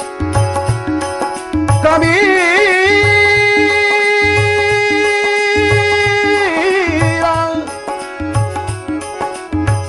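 Marathi devotional bhajan music: a singer holds one long note for about five seconds, wavering at its start and end, over a steady hand-drum rhythm and sustained accompanying notes.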